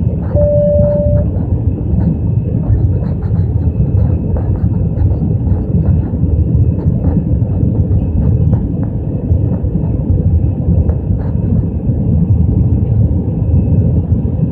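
Airbus A320 cabin noise in the climb: the steady low rumble of engines and airflow heard from a passenger seat. A single short steady beep sounds about half a second in.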